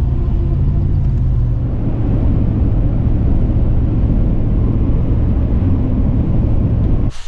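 Truck driving on the road: a steady rumble of engine and road noise, cutting off suddenly near the end.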